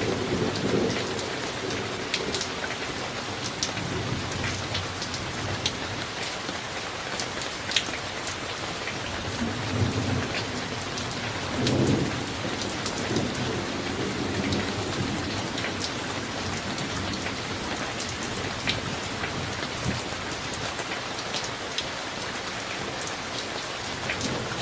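Summer thunderstorm: steady heavy rain with sharp close raindrop hits, and thunder rumbling low several times, loudest about twelve seconds in.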